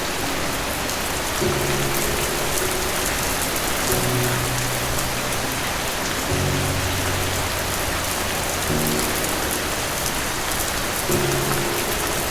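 Steady heavy rain falling, with soft, low sustained music notes beneath it that change every couple of seconds.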